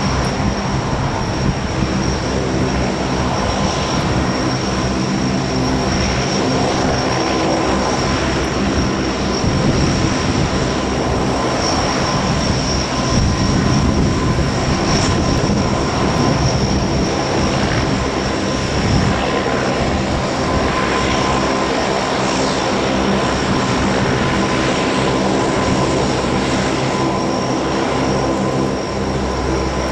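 Lockheed P-3C Orion's four Allison T56 turboprop engines running steadily, a high turbine whine over the propeller drone.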